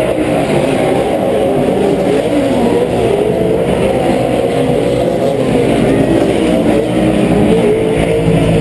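Several Pro 4 off-road race trucks' V8 engines revving at racing speed, their pitches rising and falling over one another.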